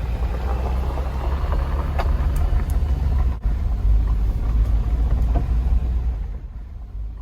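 Jeep driving on a road: a steady, loud low rumble of engine and tyres. It drops out for an instant about three and a half seconds in and fades near the end.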